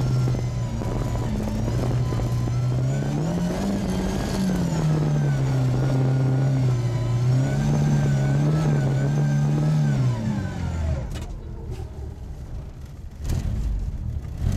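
Ford Escort Mk2 rally car's engine heard from inside the cabin, revving up and down as it is driven hard on a loose surface. About ten seconds in the engine note falls away, and a couple of knocks follow near the end.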